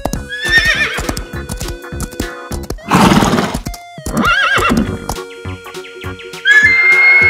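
A horse whinnying several times, with a loud noisy snort-like burst about three seconds in, over background music. Near the end a long, steady, high call begins.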